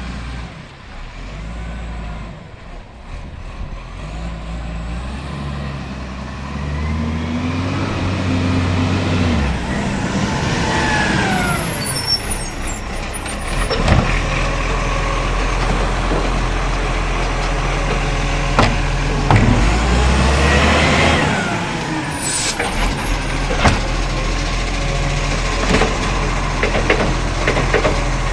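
Garbage truck's diesel engine running and revving up in steps twice, with two short hisses of air brakes and several sharp knocks.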